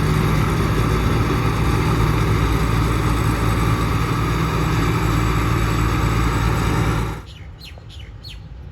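Diesel engine and threshing machinery of a rice combine harvester running steadily at working speed with a strong low hum. It cuts off abruptly about seven seconds in, leaving a quieter background with a few short high chirps.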